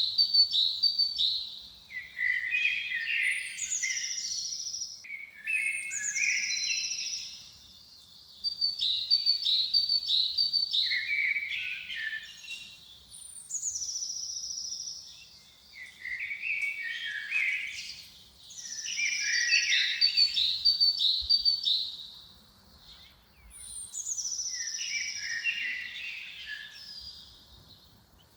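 Songbirds singing: repeated phrases of quick high chirps and trills, each a few seconds long, with short pauses between them.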